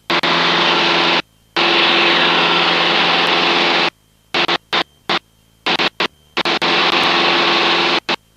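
Cessna 162 Skycatcher's Continental O-200 engine and propeller drone steadily with cockpit hiss, as heard through the headset intercom. The sound cuts out abruptly and comes back, once about a second in and then many times in quick succession in the second half.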